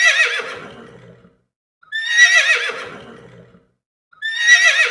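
A horse's whinny, a high wavering cry that falls away, played three times about two seconds apart as the same recording.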